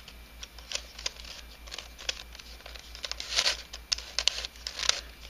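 Plastic clicking and scraping of a 3D-printed nylon helicopter cube as its pieces are twisted by hand, in an irregular run of sharp clicks and short rasps with a cluster of louder ones in the second half.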